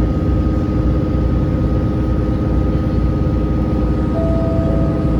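A diesel railcar's engine running steadily, heard from inside the carriage as a dense low rumble with a constant hum. A short steady tone comes in about four seconds in.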